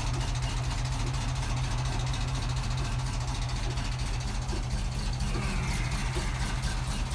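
Ford FE big-block V8 of a 1971 Ford F700 fire truck idling steadily, its choke stuck on.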